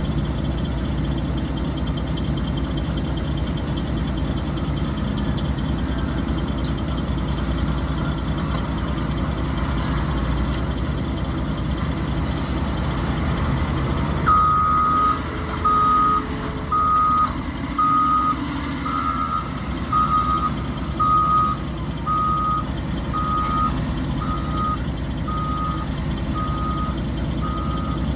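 A heavy diesel engine running steadily; about halfway in a backup alarm starts beeping, roughly once a second.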